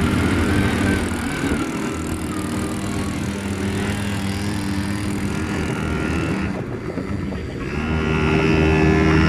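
Motorbike engine running at a steady pitch, with a noisy rush over it. Near the end a louder, steadier tone comes in.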